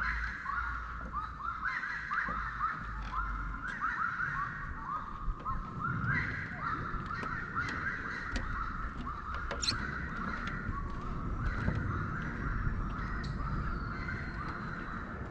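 A dense chorus of birds calling, many short repeated notes overlapping without a break, over a low outdoor rumble and a few sharp clicks.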